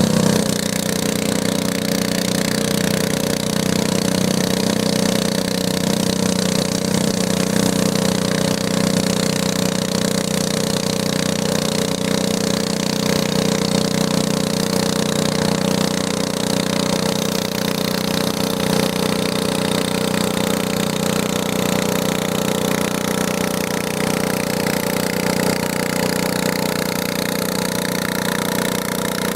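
Garden tractor engine running steadily at a constant speed.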